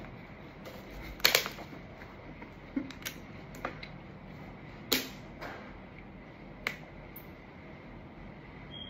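Mouth sounds of someone chewing food: scattered sharp smacks and clicks, the loudest about a second in and near the middle, over a quiet room background.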